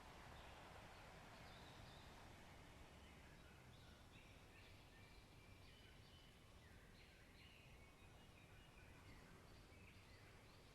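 Faint birdsong in a forest: many short chirps and brief whistled notes, scattered through, over a faint steady rushing noise.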